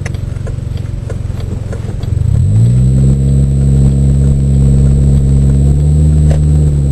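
Car engine pulling in gear: about two seconds in it rises in pitch and gets louder, then holds a steady, high drone. The automatic transmission is holding the gear and not shifting up.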